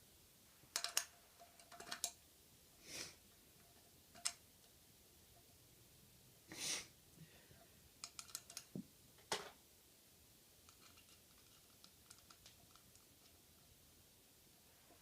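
Irregular light clicks, clinks and short rustles of scooter parts being handled while a wheel is fitted into the fork.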